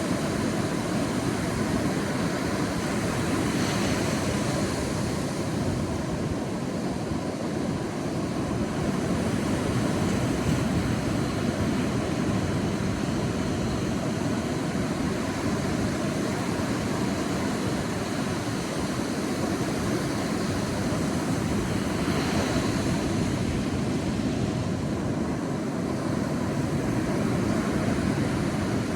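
Sea waves breaking and washing on a beach: a steady surf rumble, with two waves swelling brighter, one a few seconds in and one about two-thirds of the way through.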